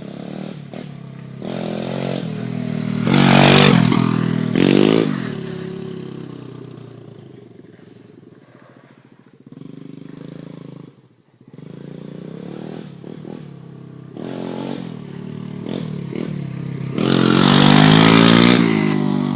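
Pit Pro mini bike's engine revving hard as it is ridden close by, loudest about three to five seconds in and again near the end, with the note dropping away and fading in between.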